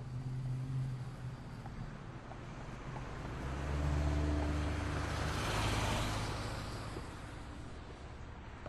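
City street traffic: a low engine hum, then a motor vehicle passing close by, growing louder about three and a half seconds in, peaking a couple of seconds later and fading away.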